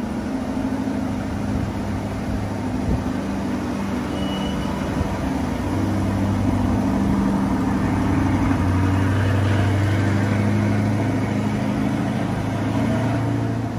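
C8 Corvette's V8 running at a steady cold-start idle just after being started. It gets a little louder and deeper from about six seconds in as the car moves off.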